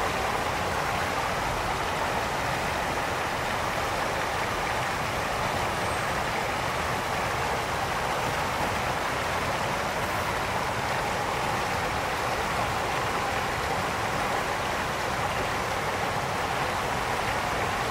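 Mountain brook flowing, a steady rushing of water over stones.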